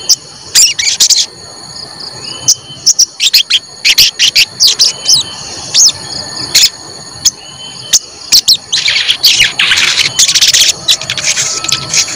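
Sogon bird calling in sharp, high "cuit cuit" chirps in quick bursts, thickening into a rapid run a little past the middle. This is a lure recording meant to set off other sogon birds. A steady high-pitched whine sits underneath.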